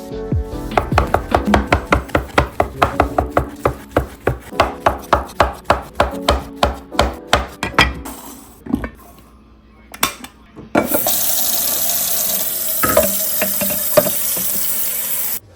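Knife chopping on a cutting board at a quick, even pace, about four strokes a second. After a short pause with a few knocks, a kitchen tap runs steadily and then is shut off abruptly.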